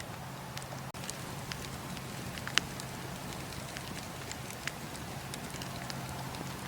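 Campfire burning: wood crackling and popping with irregular sharp snaps over a steady low hiss, one pop louder than the rest about two and a half seconds in.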